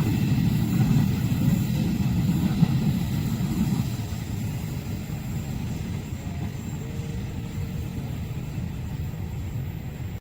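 Low rumble of a train passing a level crossing, loud for about the first four seconds and then dying down to a lower, steady rumble as it moves off.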